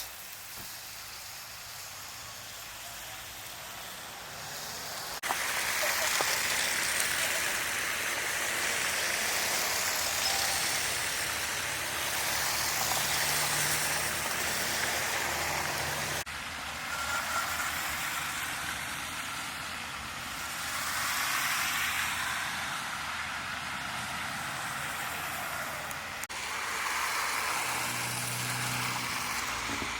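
Vehicles driving on a wet, snowy road: a steady hiss of tyres on slush that swells as they pass, changing abruptly a few times.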